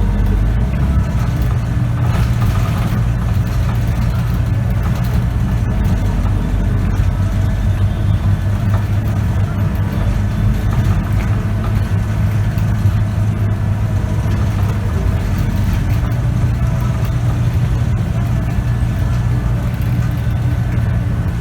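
Scania K94UB bus's nine-litre five-cylinder diesel engine running steadily, a constant low drone heard from inside the bus.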